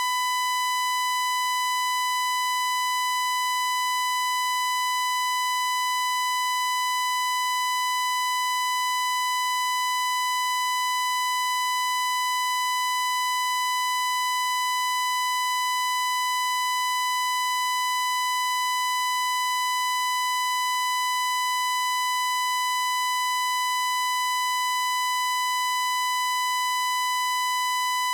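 A steady, unbroken, high-pitched electronic tone that holds one pitch without wavering.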